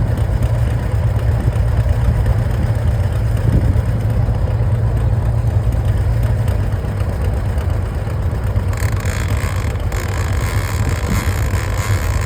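An engine running steadily with a low, even rumble. About nine seconds in, a hiss joins it.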